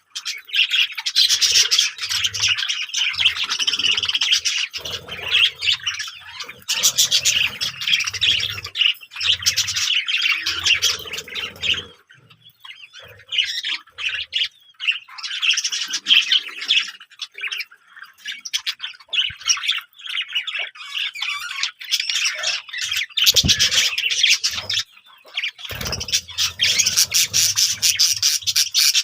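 Many small birds chirping and twittering in a dense, busy chorus that thins out for a while midway and then builds again. A few low thumps sound under the calls, two of them stronger near the end.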